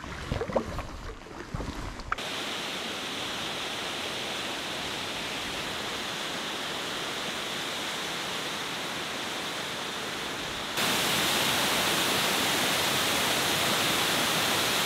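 A canoe paddle dipping and splashing for about two seconds, then the steady rush of a waterfall, which gets louder and fuller about eleven seconds in.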